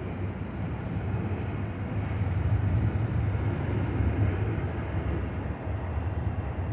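Train rolling past, a steady low rumble of wheels on the rails.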